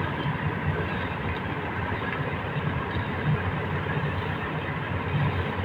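Engine of a large well-drilling rig running steadily, with a dense noisy rush over its low pulsing.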